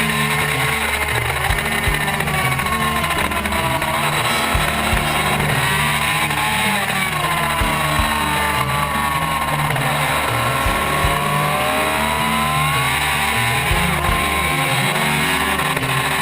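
Superbike engine revving at race pace, its pitch dropping off about six seconds in and climbing again a few seconds later as it slows and pulls away, under background music with a bass line and a steady beat.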